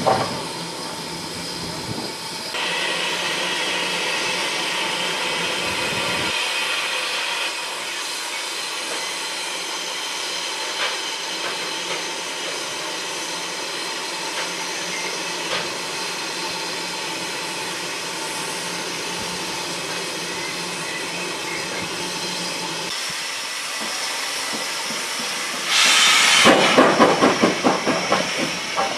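Railway train with steam hissing steadily. Near the end a sudden loud rush comes in, with rapid pulsing beats.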